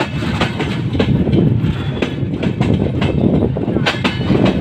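Moving passenger train of LHB coaches heard from an open coach doorway: a steady rumble of wheels on rails, with sharp clicks every half second to a second as the wheels cross rail joints.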